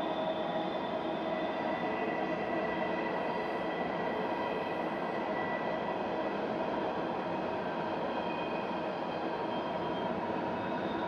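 A train's cars rolling steadily across a railroad bridge: a constant rumble of wheels on rail with several thin, steady squealing tones from the wheels.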